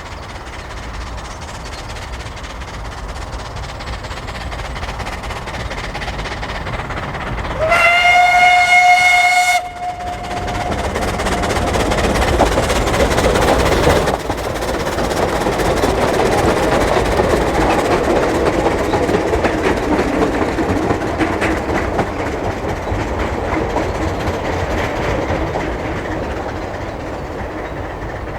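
Ffestiniog Railway narrow-gauge steam locomotive passing with its train. About eight seconds in, its steam whistle sounds one steady note for about two seconds. The engine's running and the wheels on the rails grow loud through the middle, then slowly fade.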